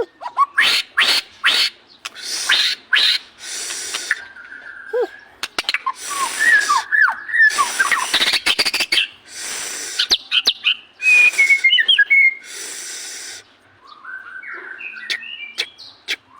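White-rumped shama (murai batu) in full song: a long, varied run of clear whistles, pitch glides and quick sharp notes, broken by harsh rasping bursts.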